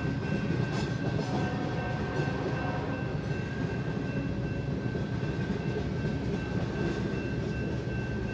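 Loaded coal train cars rolling steadily past a grade crossing, a continuous rumble of steel wheels on rail with a faint steady high tone over it, heard from inside a car.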